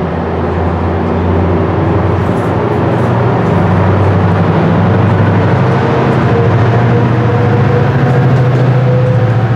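MARC commuter train rolling past, a steady rumble of coaches on the rails, with the engine of its diesel locomotive at the rear growing louder as it comes closer.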